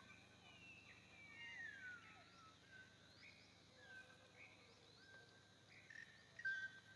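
Faint wild bird chirps and short whistled calls, with one longer whistle gliding down in pitch in the first couple of seconds.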